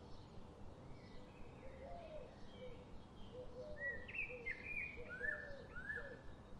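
Several wild birds calling over a steady background hiss: a run of short, low, curved notes repeats throughout, and higher chirps grow louder and more frequent from about four seconds in.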